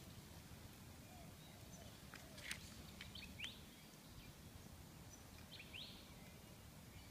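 Faint outdoor background with a few short, high bird chirps: a cluster about a third of the way in and another near the end.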